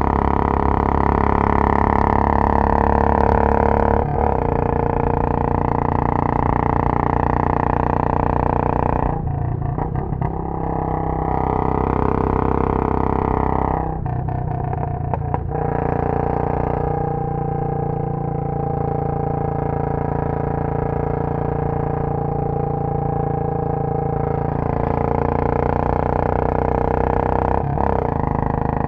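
Royal Enfield Bullet 500's single-cylinder engine running under way, exhausting through a Punjab long bottle silencer. The engine note shifts in pitch and breaks off and picks up again a few times, about 4 s in, around 9 to 11 s and again near 14 to 15 s.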